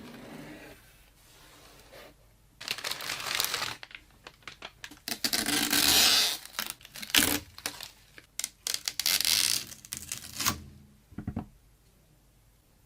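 Packaging being handled while PC parts are unboxed: irregular bursts of tearing and crinkling for several seconds, with one last short rustle near the end.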